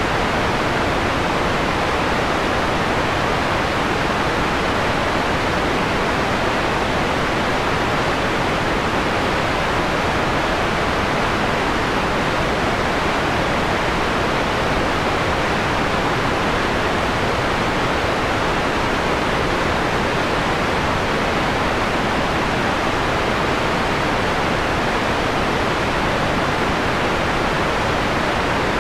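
Steady, unchanging hiss of electronically generated white noise, filtered to a mellow, dulled tone with its treble rolled off.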